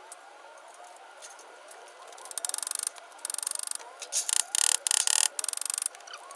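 A hand tool clicking rapidly in several bursts of about half a second each, starting a little over two seconds in and stopping about a second before the end, during work on the car's front suspension. The clicking is the loudest sound, over a steady background of faint chirping.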